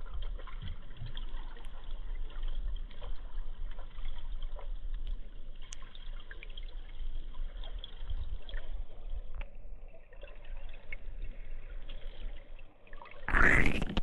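Muffled gurgling and rushing river water heard by a 360 camera submerged in the river, with a low rumble and no high sounds. Near the end comes a loud, brief rush of water.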